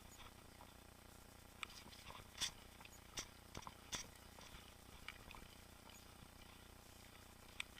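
Mountain bike rolling along a trail, heard faintly: a low steady hiss broken by scattered sharp clicks and ticks, the loudest about two and a half seconds in.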